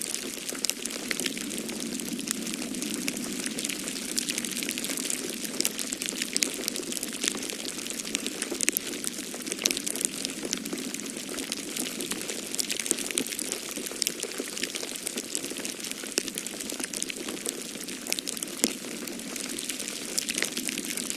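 Wood fire crackling in a fireplace, with many small pops and snaps throughout, over a steady rushing background of snowstorm wind.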